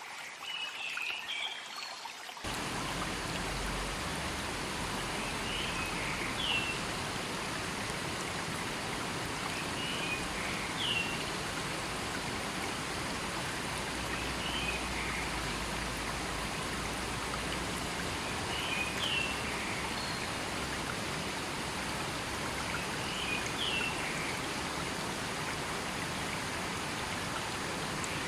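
River water rushing steadily, fuller from about two seconds in, with a short high call, likely a bird's, repeating about every four seconds.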